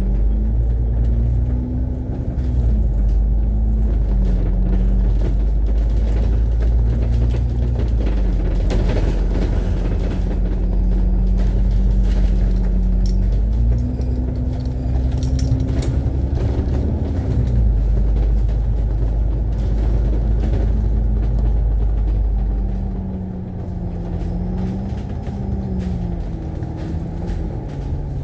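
Alexander Dennis Enviro500 MMC double-decker bus heard from on board: a steady low rumble with an engine note that rises and falls several times as the bus drives.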